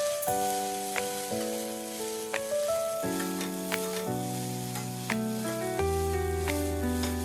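Food sizzling as it is stir-fried in a hot pan, with a few sharp clicks, over instrumental background music with held notes that change every half second or so.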